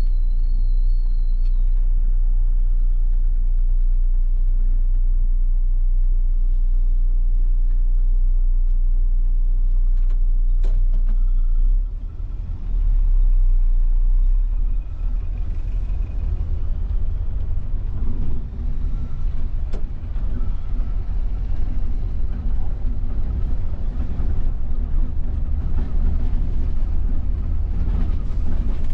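Volvo coach's engine and road noise heard from inside the driver's cabin while driving: a steady low rumble that drops briefly about twelve seconds in.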